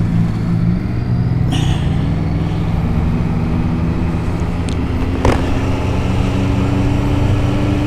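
Motorcycle engine running at a steady cruise while riding, with road and wind noise, and a single sharp click about five seconds in.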